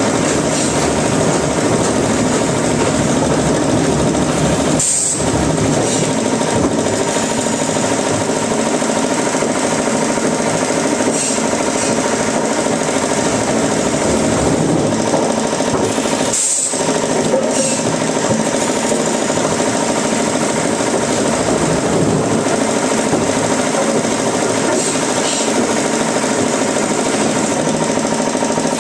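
Wood-processing machinery running loudly and steadily, a dense mechanical din with a faint steady whine, briefly dipping about five seconds in, about sixteen seconds in and near the end.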